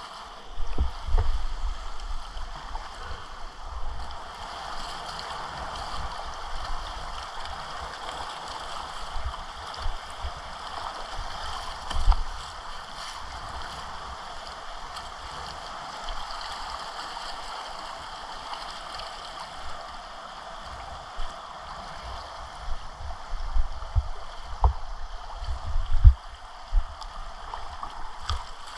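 Whitewater river water rushing steadily past a kayak, with scattered low thuds on the microphone.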